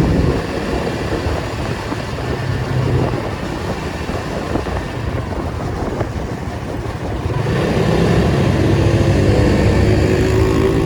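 Nissan 280Z's inline-six engine running in traffic with road noise. It is somewhat quieter for most of the first seven seconds, then grows louder again about seven and a half seconds in, its pitch rising slightly near the end.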